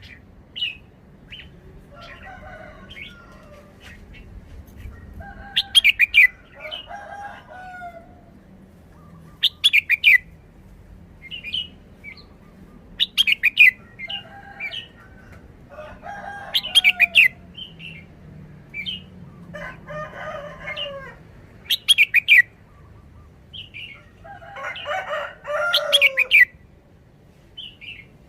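Red-whiskered bulbul singing short, bright song phrases, one roughly every three to four seconds, with quieter, lower calls between them.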